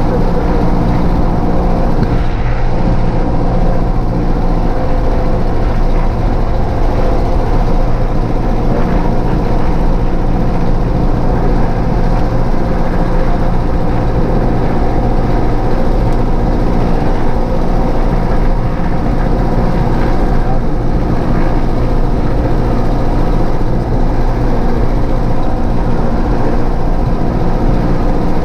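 Cessna 152's four-cylinder Lycoming engine and propeller running steadily at a constant speed, loud and even.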